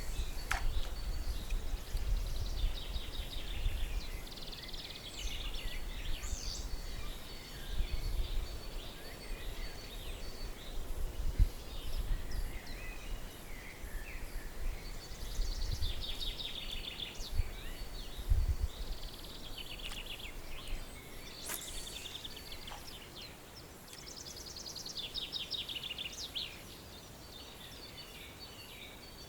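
Several songbirds singing in repeated trills and chirps, over a low rumble of wind buffeting the microphone that gusts up and dies down.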